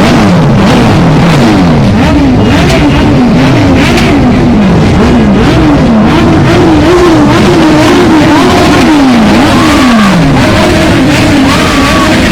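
Loud vehicle engines being revved over and over, the pitch climbing and dropping roughly once a second in overlapping throttle blips.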